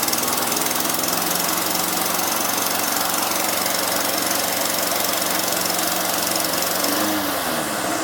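Victa Pace lawn mower engine running steadily just after starting, its carburetor freshly cleaned. Near the end the engine speed drops and the pitch falls.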